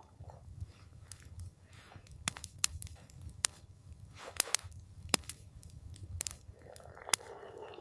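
Wood campfire crackling, with irregular sharp pops and snaps over a low rumble of the burning fire, and a soft rushing swell near the end.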